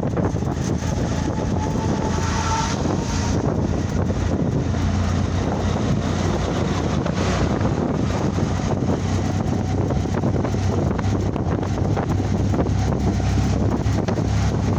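Steady rumble of a vehicle moving along a road: engine and tyre noise running evenly without letting up.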